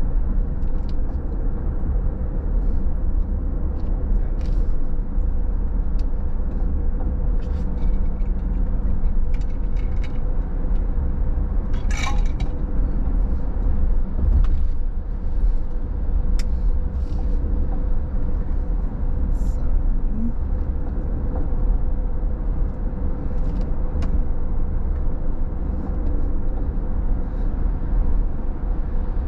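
A car's road noise while driving: a steady low rumble with a constant hum, and scattered short clicks.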